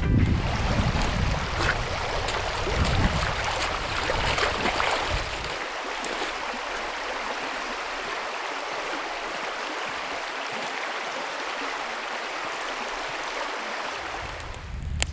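River water rushing steadily, with a low rumble under it for the first five seconds or so.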